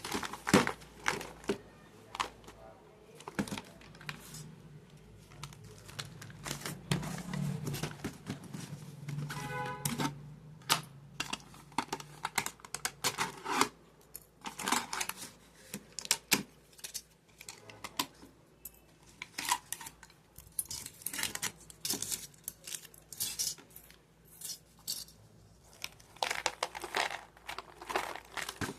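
A plastic wrapper of a Dukes Nibbles biscuit packet being handled, crinkled and torn open, in a long run of irregular crackles and rustles.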